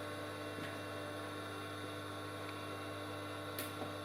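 Steady low electrical hum of the mains type, with faint steady higher tones over it, and a faint click near the end.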